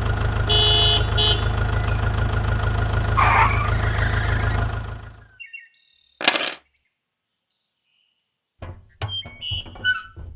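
A steady engine hum with a few short horn-like beeps about half a second in, fading out about five seconds in. A single sharp knock follows, then total silence, then a run of clicks and short beeping tones near the end.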